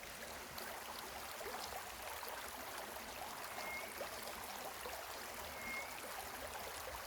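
Steady hiss of running water, with faint small ticks and two brief faint chirps partway through.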